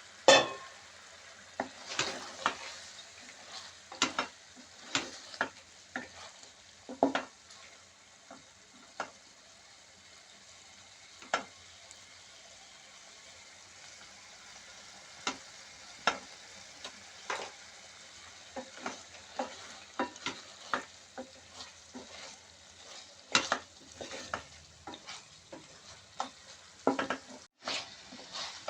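Chicken and bitter gourd (karela) sizzling as it fries in a pan, stirred with a spoon that scrapes and knocks against the pan at irregular intervals. The loudest knock comes right at the start.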